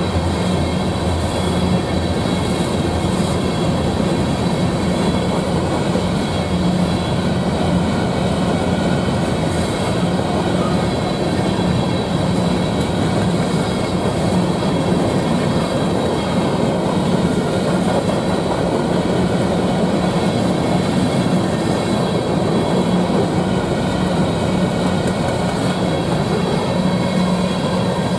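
Covered hopper cars of a freight train rolling past, steel wheels on the rails making a steady, loud rumble with a few constant ringing tones over it.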